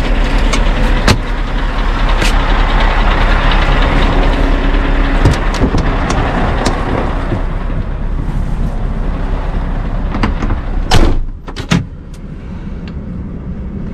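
Heavy truck noise with scattered clicks and knocks. About eleven seconds in come two loud knocks, after which the sound is quieter.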